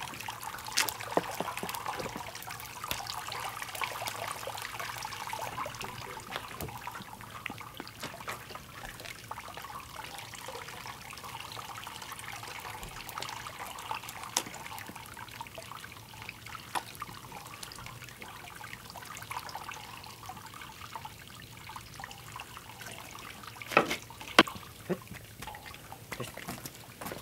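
Liquid steadily trickling and dripping, with scattered light clicks and two sharp knocks near the end.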